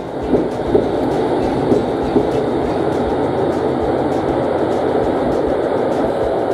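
Four-car Rapid Mie diesel railcar train (KiHa 75) running alongside the platform: a steady rumble of engines and wheels on the rails, with a few light clacks in the first couple of seconds.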